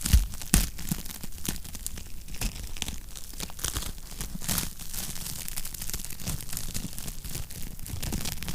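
Wood fire crackling in a fireplace: irregular snaps and pops over a low hiss, with two louder pops in the first second.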